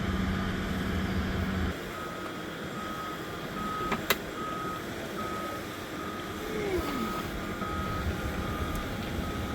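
A vehicle's reversing alarm beeping steadily at an even pace, a little under two beeps a second. It starts about two seconds in, just after a steady low hum cuts off. A single sharp click sounds partway through.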